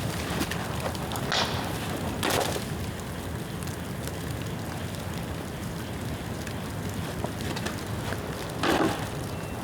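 Rain-wet bamboo burning in an open bonfire: a steady crackle with three louder pops, about one and a half seconds in, two and a half seconds in, and near the end.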